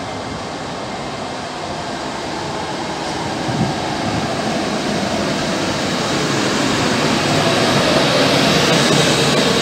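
Red ÖBB Rh 1293 Vectron electric locomotive hauling a freight train of hopper wagons, approaching and passing close by, with the running noise of wheels on rails growing steadily louder.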